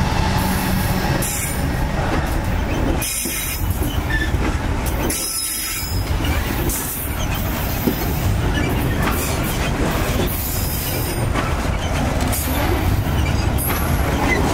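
A heavy diesel-hauled freight train passes close by: steel wheels squeal and grind on the rails as a long string of grain hopper wagons rolls past. The locomotive engines rumble steadily in the first second.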